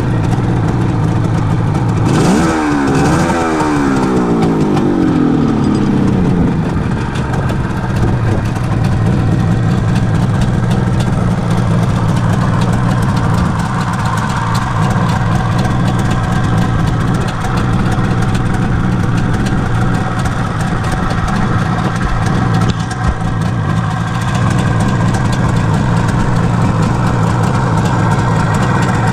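1979 Suzuki GT550's air-cooled two-stroke three-cylinder engine idling steadily, blipped twice about two seconds in, then settling back to idle over a few seconds.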